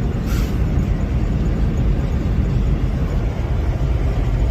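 Steady low rumble of a semi-truck's engine and road noise heard inside the cab, with a brief hiss about a quarter second in.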